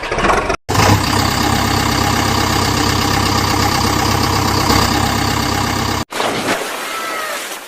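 An engine running steadily at idle, with a regular low throb. It cuts off abruptly about six seconds in, and a quieter engine sound follows.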